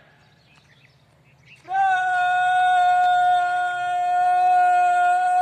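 A drill commander's voice holding one long, steady note of a drawn-out parade command, starting about a second and a half in and held for about four seconds. A low steady hum runs underneath.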